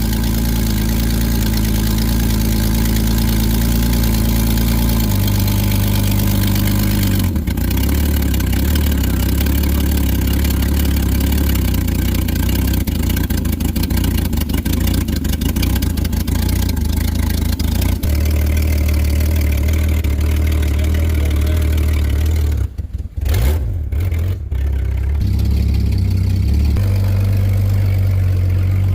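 High-mileage Chevrolet truck engine running just after a jump start. Its idle speed steps up and down several times, with a brief falter about three-quarters through. It is being left to idle to recharge a flat battery.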